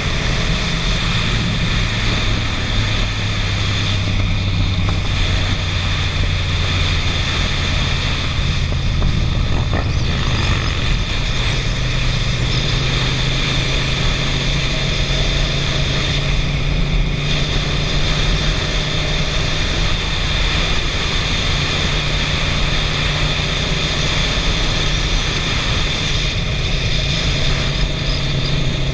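Suzuki SV650's 645 cc V-twin engine running under way, heard from the rider's helmet over a steady rush of wind and road noise; the engine note steps up to a higher pitch about eleven seconds in.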